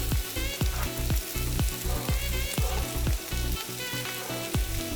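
A filling of ham, onion, sweet pepper and plantain sizzling as it sautés in a frying pan. Background music with a steady beat plays over it.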